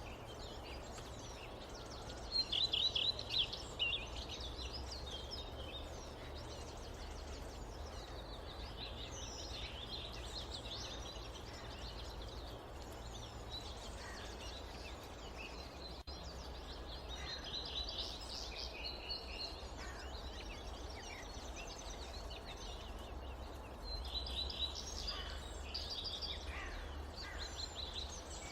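Forest birds chirping and trilling over a steady low rumble of wind. The loudest run of quick chirps comes about two to four seconds in, with more calls around the middle and near the end.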